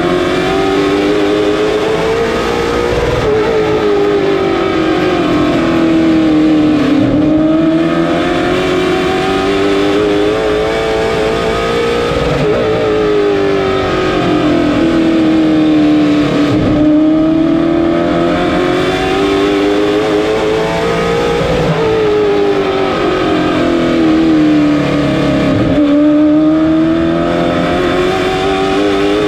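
Late model stock car's V8 engine at racing speed, its note climbing for about five seconds and then falling for about four, over and over: the car accelerating down each straight and easing off through each turn.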